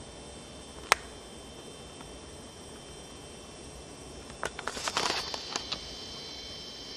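Vintage Eskimo 12-inch box fan, its motor freshly oiled, running with a steady airy hiss and a thin high whine. There is a sharp click about a second in and a short cluster of clicks and rattles about four and a half seconds in.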